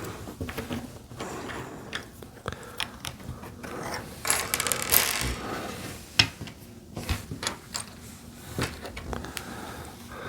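Plastic LEGO bricks clicking and knocking as pieces are handled and pressed together, with a denser stretch of rattling about four seconds in.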